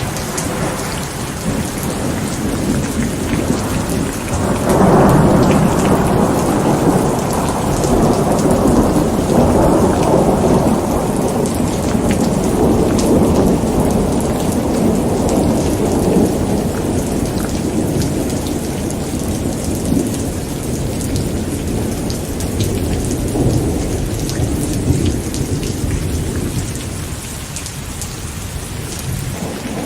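Steady rain falling, with a long roll of thunder that swells about four seconds in and slowly rumbles away.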